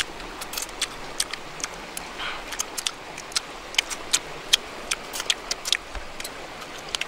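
Wet mouth clicks and lip smacks of a man chewing cooked fish, a few irregular clicks a second over a steady hiss.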